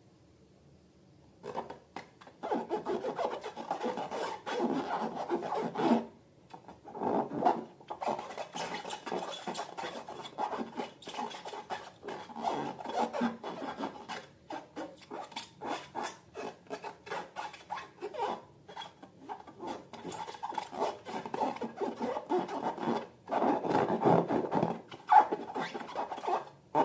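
Slime being worked and squished, a dense irregular crackle of small wet clicks that starts about a second and a half in, with a few brief pauses.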